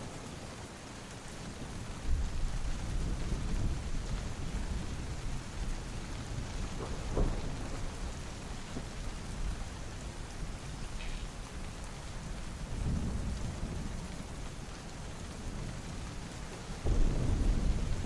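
Heavy rain falling steadily, with low rolls of thunder. One rumbles in about two seconds in, a weaker one comes around thirteen seconds, and a louder one near the end.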